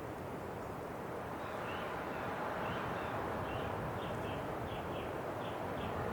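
Steady wind blowing, swelling a little about two seconds in, with a string of short, high bird chirps over it through the middle.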